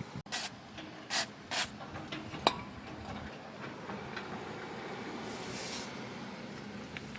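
Short hissing spray bursts: three quick ones in the first two seconds, then a sharp click, and a softer, longer hiss near the end, as the fuel passages of a disassembled carburetor are blown out during cleaning.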